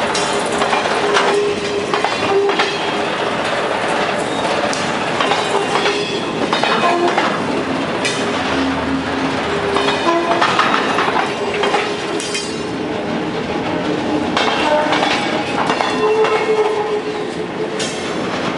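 Container wagons of a freight train rolling past, wheels clacking over the rail joints in a steady run of clicks, with brief intermittent squeals from the wheels.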